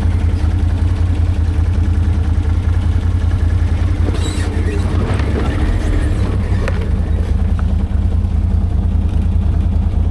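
ATV engine running steadily at low speed, a deep drone, with a few brief knocks and rattles around the middle.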